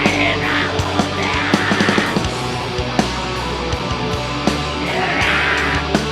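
Heavy metal band playing live: distorted guitars and bass over drums, loud and dense, with sharp drum hits throughout.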